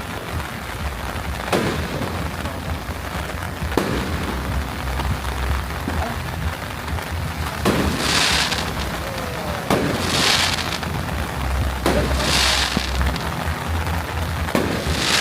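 Fireworks going off in the rain: a series of sharp bangs about two seconds apart, three of them in the second half trailing into a longer hissing crackle. A steady patter of rain and a low rumble lie underneath.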